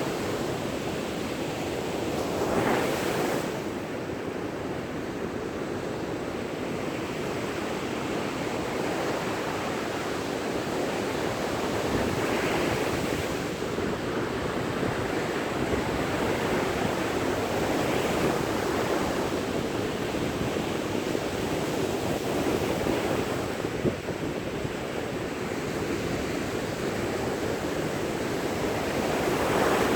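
Sea waves breaking on a beach: a steady wash of surf, with the sound of a wave breaking a few seconds in, at about twelve and eighteen seconds, and again near the end. There is some wind on the microphone.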